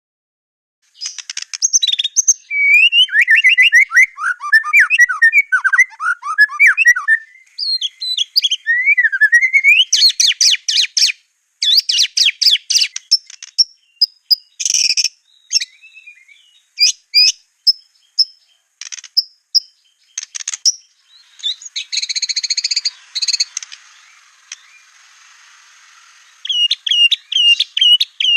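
White-rumped shama (murai batu) singing a loud, varied song of whistled phrases, fast trills and sharp repeated notes with short pauses, ending in a quick run of repeated notes.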